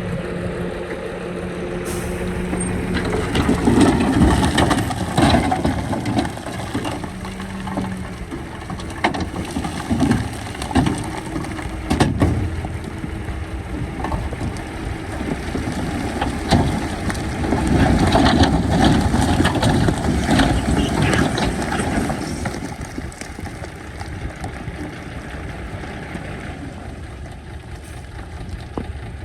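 Heavy earthmoving machinery working: a diesel engine running steadily, then rough grinding and crunching of rock and soil with several sharp knocks, swelling louder twice.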